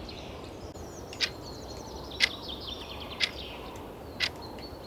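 A countdown tick sounding once a second, four times, over a nature-ambience background of birds chirping and a steady hiss.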